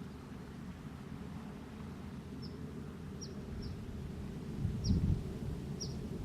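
Five short, high, falling chirps from a small bird over a steady low rumble, which swells louder about five seconds in.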